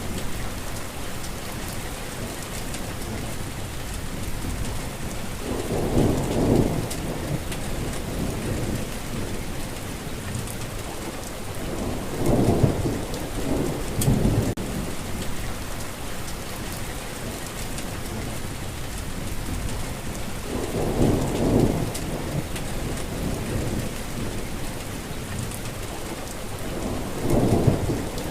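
Steady rainfall, with short low rumbles of thunder swelling up every several seconds, about five times.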